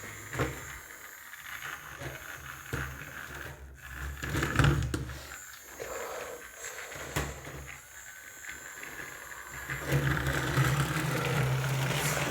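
Toy train running on its track: a steady electric motor hum with scattered clicks and rattles, getting louder about ten seconds in.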